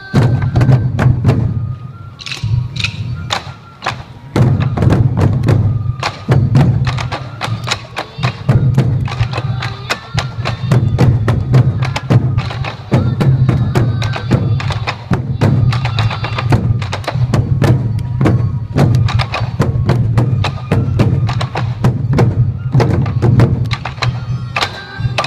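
Sansa odori taiko drums struck together in a fast, driving rhythm, with a bamboo flute melody sounding over the drums at times, most clearly near the start and the end.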